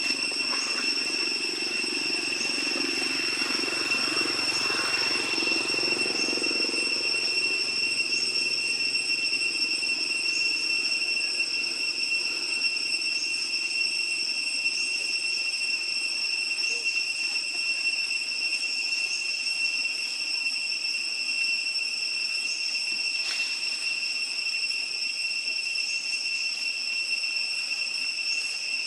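A steady, high-pitched insect drone with a faint short chirp repeating about every two seconds, over a low rumble that fades out within the first several seconds.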